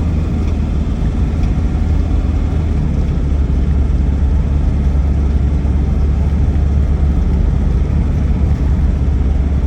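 Land Rover Defender 90 TDCi's four-cylinder turbodiesel and road noise on the move, a steady low drone heard from inside the cabin.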